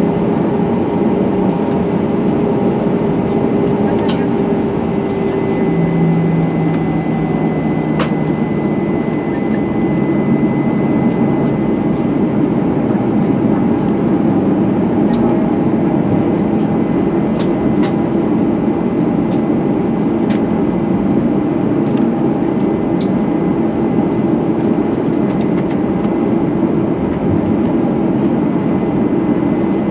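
Cabin noise inside an Airbus A320-211: its CFM56 jet engines run steadily, a loud, even hum with a few high whining tones. Small scattered clicks and rattles sound through it.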